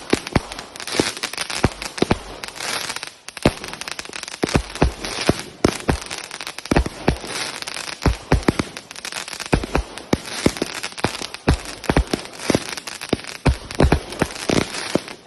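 Consumer fireworks cakes going off: a rapid, uneven string of shots and bangs, several a second, over a steady crackling hiss.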